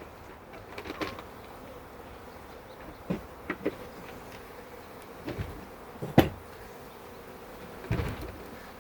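Honeybees buzzing steadily around an open hive, agitated by the disturbance. Several sharp knocks and clatters come through as the hive parts are handled, the loudest about six seconds in.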